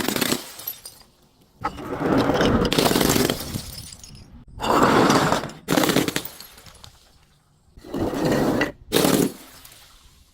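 Glass being smashed and crushed: a run of loud, shattering crunches, about five of them, each lasting a second or so with short pauses between.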